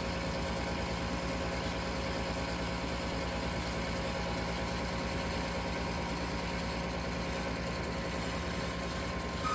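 Gas furnace draft inducer motor running with a steady hum. The motor is going bad, and the furnace is not lighting.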